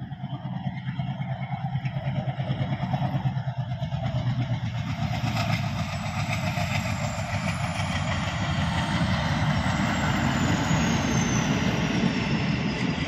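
Passenger train running past on the track: a steady low rumble with a rushing rattle of the coaches that builds over the first few seconds, then holds as the coaches go by. A thin high whine slowly falls in pitch as it passes.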